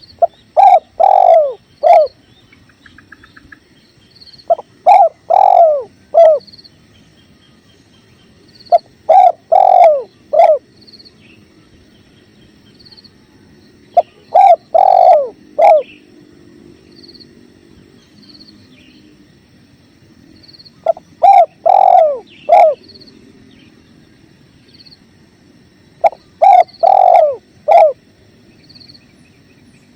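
Spotted dove cooing loudly in phrases of three to four coos, each about two seconds long, six times over, every four to six seconds. Beneath is a faint steady rush of flowing river water, with small high chirps about once a second.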